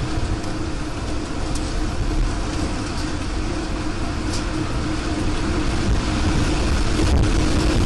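Steady rumble of a vehicle in motion, with a constant low hum running through it.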